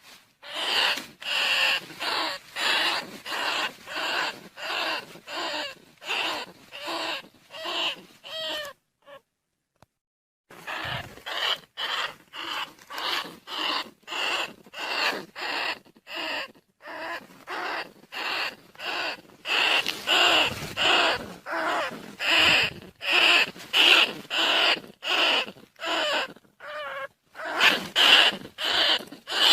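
Rat decoy call for rice-field rats and bandicoot rats: short squeaky calls repeated about one and a half times a second, with a pause of about two seconds about a third of the way in.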